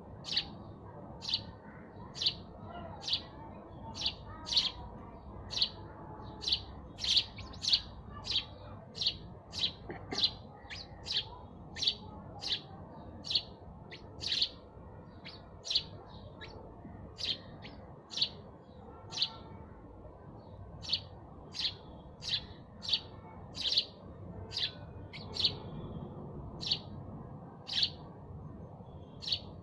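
House sparrow chirping: a long, steady run of single short chirps, about one and a half a second, over a faint low hum.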